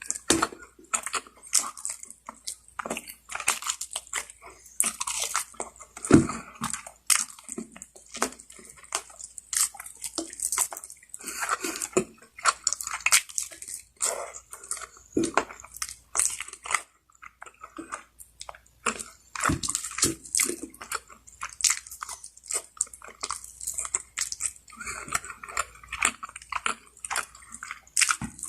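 Close-miked eating of rotisserie chicken: a steady stream of wet chewing, biting and crunching, with irregular clicks and smacks several times a second.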